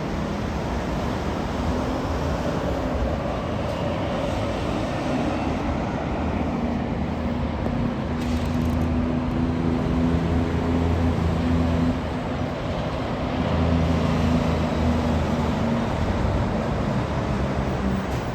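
Heavy truck engine running as it passes, a steady low drone over tyre and traffic noise. It grows louder in the second half and eases briefly about two-thirds of the way through.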